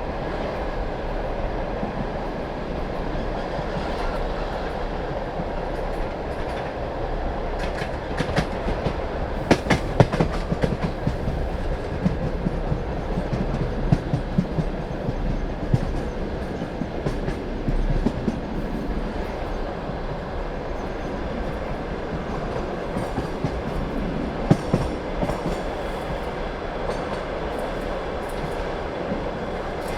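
Passenger carriage wheels running over jointed rails, heard from the train window: a steady rumble with clickety-clack wheel knocks. There are runs of sharper clicks about a third of the way in, again near the middle, and once more later on.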